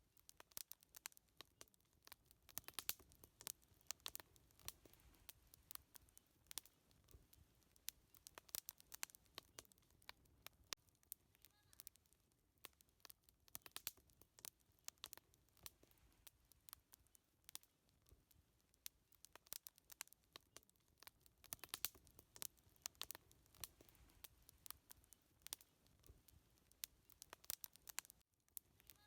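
Wood campfire crackling quietly, with a steady run of irregular small pops and snaps.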